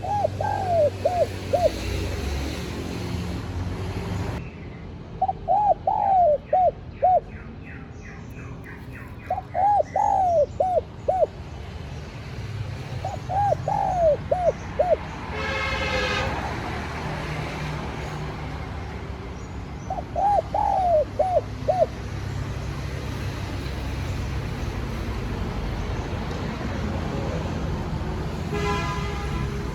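Spotted dove cooing: five short phrases of a few rising-and-falling coo notes each, a few seconds apart, over a steady low rumble. A brief tonal blast cuts in about halfway through and again near the end.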